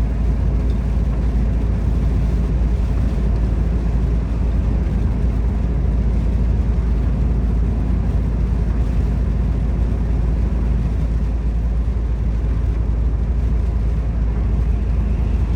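Volvo FH 460 truck's 13-litre straight-six diesel running steadily under way, a deep, even rumble with road noise.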